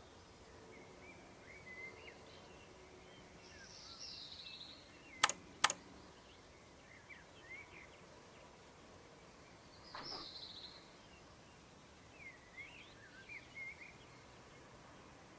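Birds chirping and calling now and then, with two sharp clicks about half a second apart some five seconds in.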